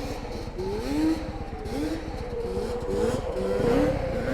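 Dirt bike engine revving in short rising surges, again and again, over the steady drone of another engine.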